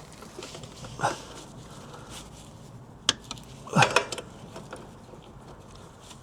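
A man grunting with effort twice, about a second in and more strongly near the middle, as he strains to turn a stuck oil filter. A sharp click comes just before the second grunt.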